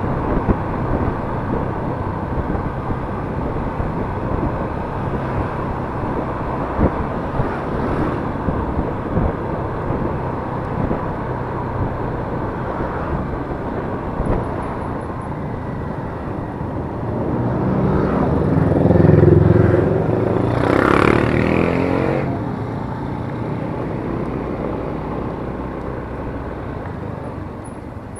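Yamaha Mio S scooter riding along, its 125 cc single-cylinder engine running under steady road and wind noise. About two thirds of the way through, a louder engine sound swells for a few seconds and fades again.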